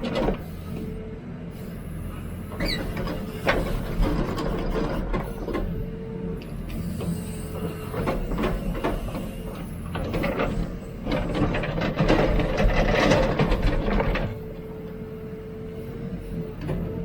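Hidromek 102B backhoe loader digging: the diesel engine runs under load while the hydraulics work and the bucket scrapes and clanks through the ground. A steady tone comes and goes over the engine, and the clatter is heaviest from about eleven to fourteen seconds in.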